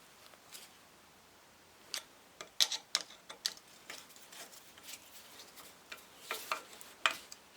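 Scattered light clicks and taps of small metal parts and tools being handled: screws, a plate and a socket being set in place on a starter solenoid. The taps come irregularly, in a cluster near the middle and a few more near the end.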